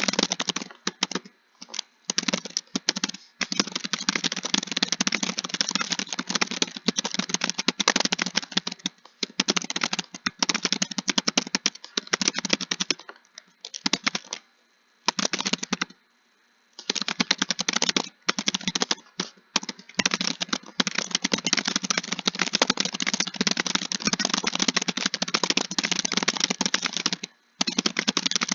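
Fast typing on a computer keyboard: a dense run of keystrokes broken by a few short pauses, the longest lasting a couple of seconds about halfway through.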